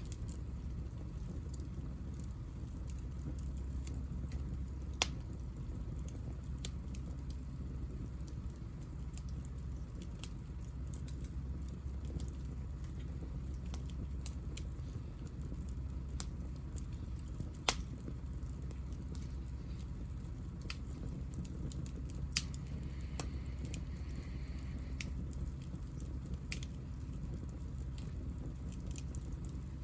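Hinoki (Japanese cypress) offcuts burning in a small fire: scattered sharp pops and crackles over a steady low rumble, the loudest pop about 18 seconds in.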